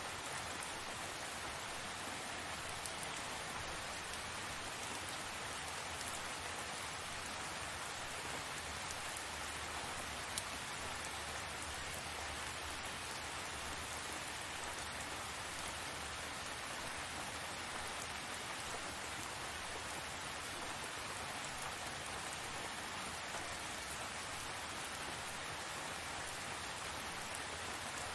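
Steady rain falling and pattering on surfaces, with a few separate drops ticking out now and then.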